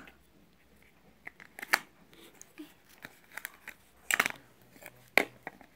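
Packaging being handled and opened by hand: scattered short clicks, crinkles and rustles, louder in brief clusters at about one and a half, four and five seconds in.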